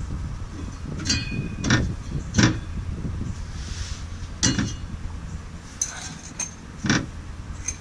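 Sharp metal clinks and knocks, about six at irregular intervals, from metal parts and tools being handled while a van air-conditioner condenser is fitted, over a steady low rumble.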